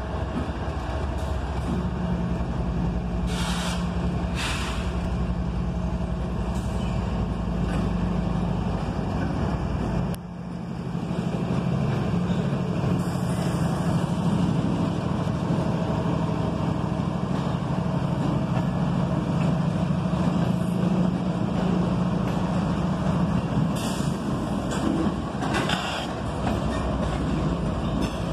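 Diesel locomotives of a CSX freight train, CSXT 3473 leading and 3319 trailing, passing close by: a steady low engine rumble that grows louder about ten seconds in as the locomotives come alongside, with a few short hisses of air.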